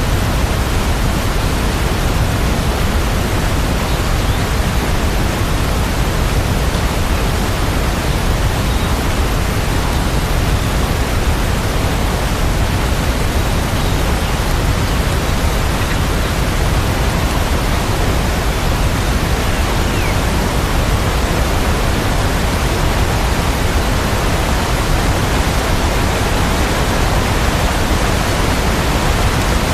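Steady rain, an even unbroken hiss with no single drops, thunder or music standing out.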